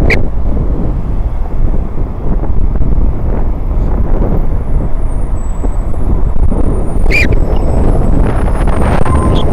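A loud, steady low outdoor rumble, with one short bird chirp about seven seconds in.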